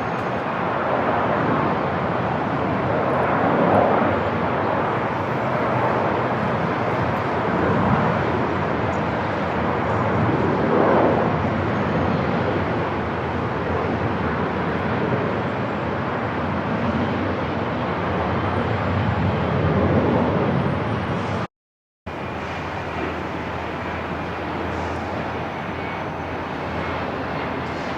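Airport ambience: a steady rumbling roar of distant aircraft and vehicle noise that swells gently every few seconds. It cuts out completely for about half a second roughly three-quarters of the way through, then carries on steadier and slightly quieter.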